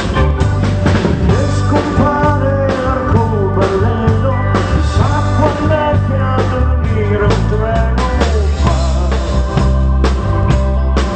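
A live rock band plays a song: a drum kit keeps a steady beat under a strong bass line, with a wavering lead melody above.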